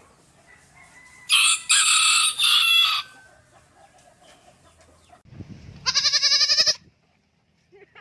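A rooster crowing once, a loud cock-a-doodle-doo in three parts lasting about two seconds. About three seconds later comes a short, loud, wavering bleat.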